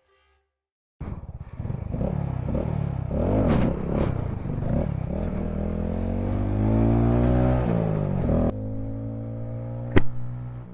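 Honda Grom's small single-cylinder motorcycle engine revving, its pitch rising and dropping several times and then climbing in one long rise, before settling to a steadier, lower note for the last couple of seconds. A single sharp click comes near the end.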